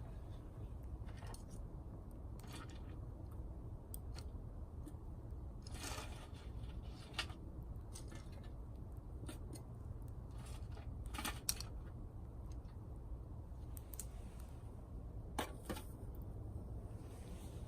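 Dry twigs snapping and crackling: scattered sharp cracks every second or two over a steady low rumble.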